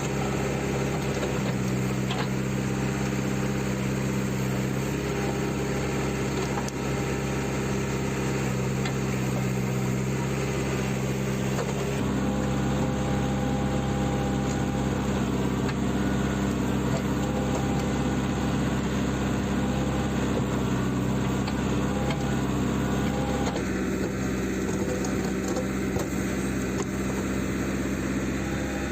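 JCB 3CX backhoe loader's diesel engine running steadily. Its note grows louder about twelve seconds in and drops back a few seconds before the end.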